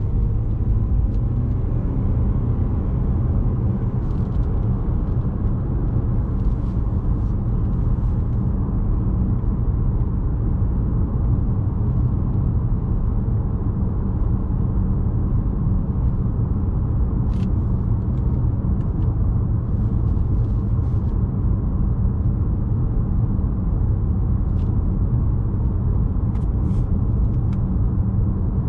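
A 2017 Lexus RX 200t's 2.0-litre turbocharged four-cylinder (8AR-FTS) engine running steadily while driving, mixed with road rumble. A few faint, short ticks sound now and then.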